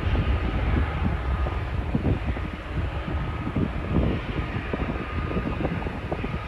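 Jet airliner engines rumbling as the plane climbs away after take-off, the rumble heaviest in the first second and then easing, with wind buffeting the microphone.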